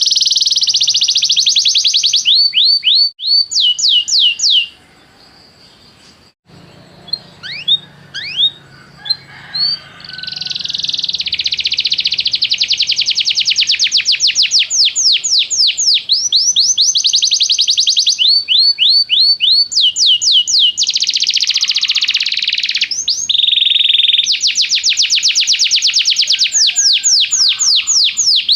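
Domestic canary singing: fast rolling trills of quickly repeated, downward-sweeping high notes. The song breaks off about five seconds in, with only scattered notes for several seconds, then resumes as long unbroken trills.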